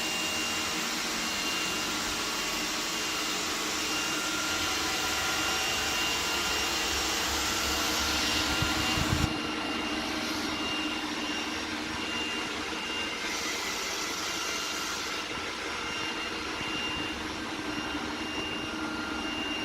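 iRobot Roomba 980 robot vacuum running steadily, its suction motor giving a constant whine over brush and airflow noise. Just before nine seconds in, the sound swells briefly, then drops to a lighter, less rumbly whine.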